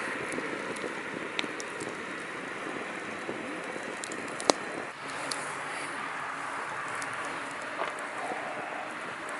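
Campfire crackling: a steady hiss with scattered sharp pops, one loud pop about four and a half seconds in.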